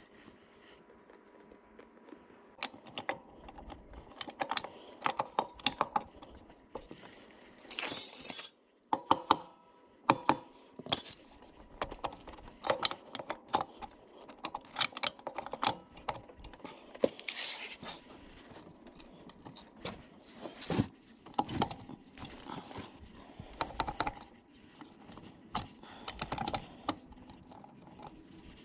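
Hand work on Suzuki Address V100 gear-case parts: scattered metal clicks, taps and knocks as tools and shafts are handled. There is a short metallic ring about eight seconds in and again about eleven seconds in.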